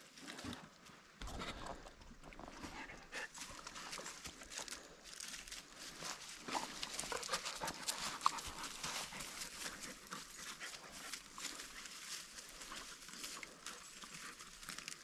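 Laika dogs moving about in dry fallen leaves: faint, continuous rustling and crackling, with a dog's breathing.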